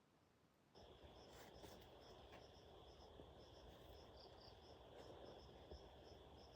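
Faint ambience of insects: a steady high buzz with short chirps repeating above it. It is almost silent for the first moment, then the sound cuts in.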